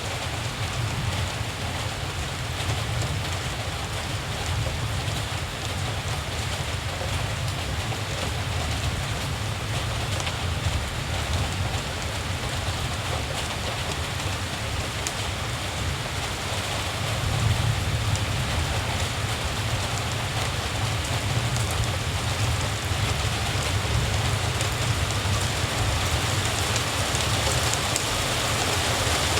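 Steady rain falling, a continuous hiss, with a low rumble underneath that swells twice.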